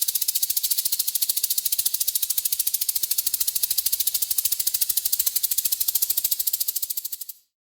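Rattlesnake shaking its tail rattle: a rapid, even, high-pitched buzz of many fine clicks, steady throughout and fading out near the end.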